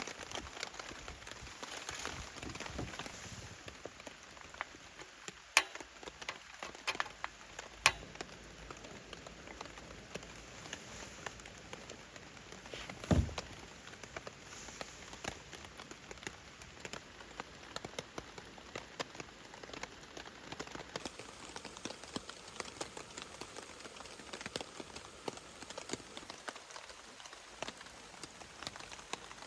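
Rain falling, with many fine drop ticks over a steady hiss. A few sharper clicks stand out in the first third, and there is a single dull thump near the middle.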